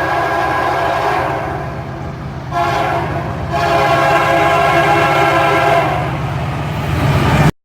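Locomotive horn sounding in long blasts over the rumble of the passing train, dipping briefly about two seconds in before sounding again. The horn fades near the end, leaving the train's rumble, which then cuts off abruptly.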